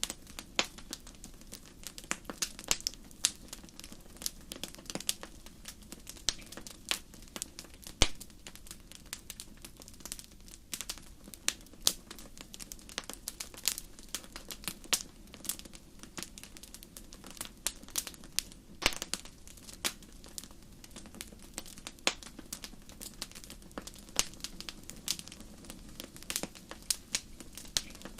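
Fire crackling in a fireplace: irregular sharp pops and snaps, several a second at times, over a low, steady rumble of burning.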